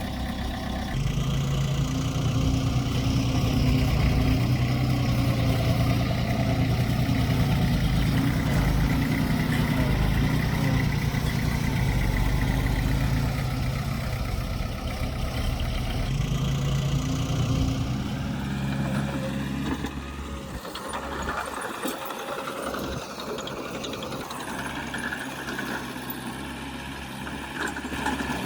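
Diesel engine of heavy earthmoving machinery running steadily. It drops away about two-thirds of the way through, leaving a quieter, thinner engine sound.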